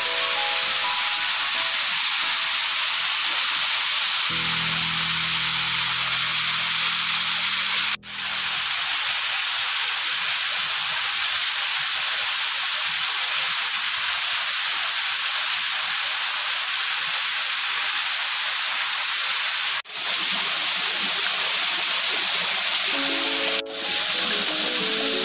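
Stream water flowing, a loud, steady rushing hiss that drops out briefly three times, about 8, 20 and 24 seconds in. Soft background music notes sit underneath near the start, between about 4 and 8 seconds, and again near the end.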